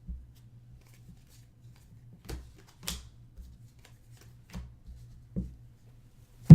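Trading cards being handled and set down on a table: a few light taps and rustles, then one sharp knock near the end, over a steady low hum.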